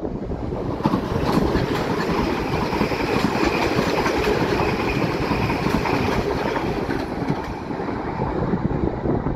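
South Western Railway electric multiple unit passing close by and pulling away, its wheels rumbling and clattering over the rail joints with a faint steady whine. The sound swells about a second in and eases off near the end as the train recedes.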